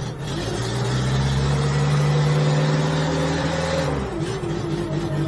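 Genie S60 boom lift's engine running, its speed rising about half a second in, holding higher, then dropping back to idle near four seconds in.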